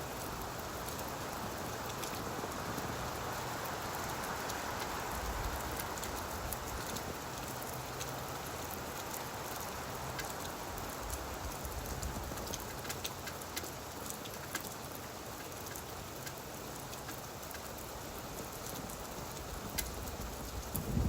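Steady rain falling on leaves: an even hiss with scattered sharp drip taps.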